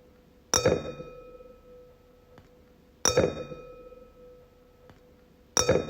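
Wine glass struck three times, about every two and a half seconds, each strike ringing out in a clear, steady tone with bright overtones that slowly fades.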